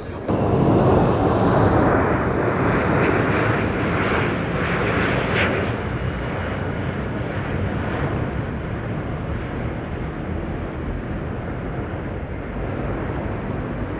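Aircraft engine noise from a flying-display pass, a loud rushing roar without a clear tone. It comes in suddenly just after the start, is loudest over the first few seconds, then eases into a steadier, lower rush.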